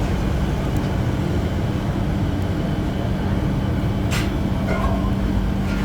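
A workshop machine running with a steady low hum and rumble, with a couple of sharp clicks about four seconds in and near the end.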